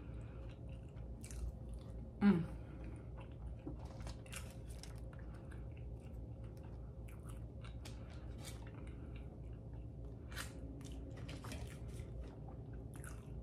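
Close-miked chewing of soft buttery pancakes, with wet mouth clicks scattered throughout and a short hum about two seconds in.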